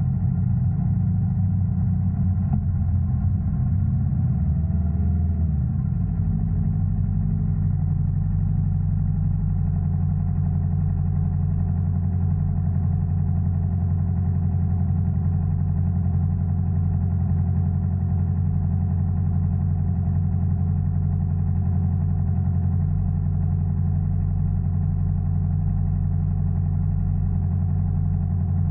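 Yamaha R3's parallel-twin engine running at a steady engine speed, with a brief rise and fall in pitch about five seconds in.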